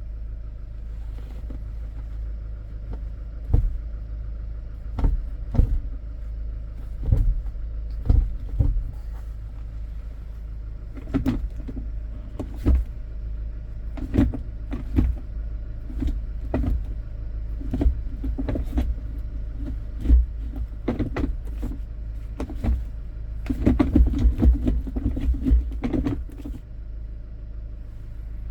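Hyundai Porter II truck's diesel engine idling with a steady low hum, under a string of sharp clicks and knocks, which come thickest and loudest near the end.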